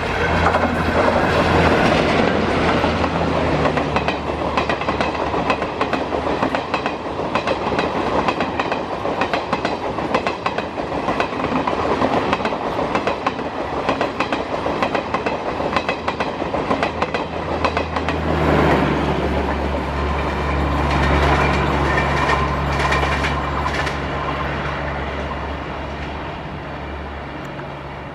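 Indian Railways passenger train rolling past, its wheels clattering over rail joints under a continuous rumble and a steady low hum. The hum swells again after about 18 seconds, then the sound fades near the end as the train draws away.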